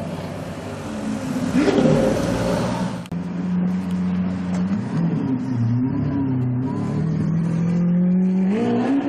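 Supercar engine: a short rev about two seconds in, then, after an abrupt break, the engine running at a steady pitch that wavers a little and rises again near the end.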